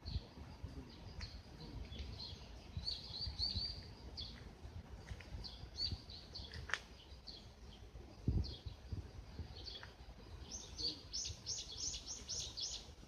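Birds chirping with short high calls throughout, including a quick run of repeated notes about ten seconds in, over a low rumble. A low thump comes a little past eight seconds.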